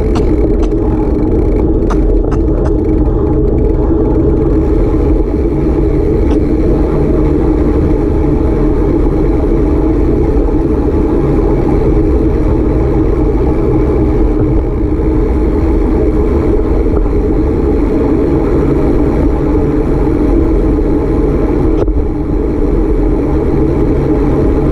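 A vehicle in motion, a steady low rumble of engine and road noise with no break.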